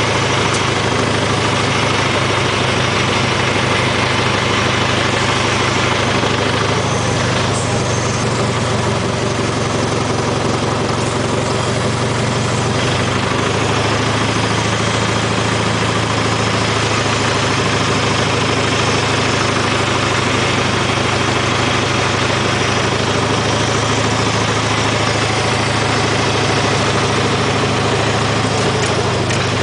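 IHC tractor engine idling steadily, with a few faint knocks about a third of the way through.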